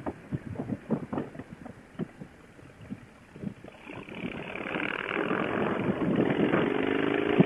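Motorcycle engine and wind heard through a Bluetooth helmet intercom headset's microphone, thin-sounding with no high end. It is quiet and crackly with small clicks at first, then grows louder about halfway through, with a steady engine note near the end.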